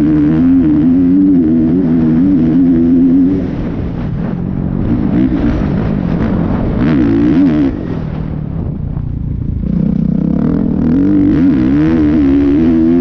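Dirt bike engine running as it is ridden, its pitch rising and falling with the throttle. It is loud for the first few seconds, drops back after about three and a half seconds, and comes back loud from about ten seconds in.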